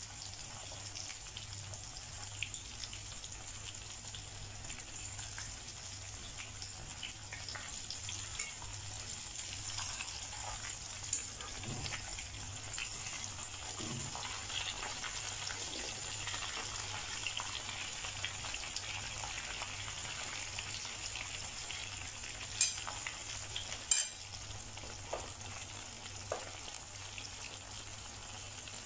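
Breaded chicken pieces shallow-frying in oil in a pan: a steady sizzle with small scattered crackles. Two sharper clicks come about a second and a half apart, roughly four-fifths of the way through.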